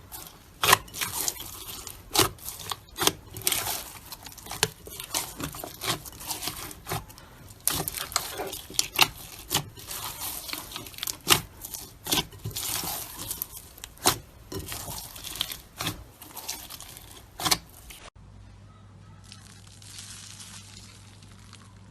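Slime being squeezed and worked by hand, giving many sharp pops and crackles, several a second. About eighteen seconds in, it cuts to a much quieter stretch with a low steady hum and a faint hiss.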